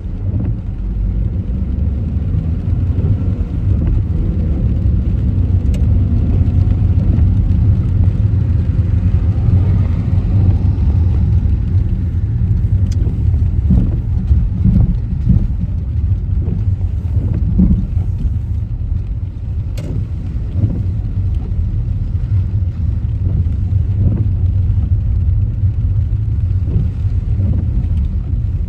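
Car driving: a steady low rumble of engine and tyre noise, with a few faint ticks here and there.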